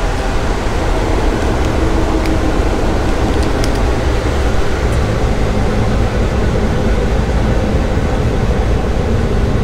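Steady, loud rumble and rush of a moving passenger train, with a few faint ticks over it.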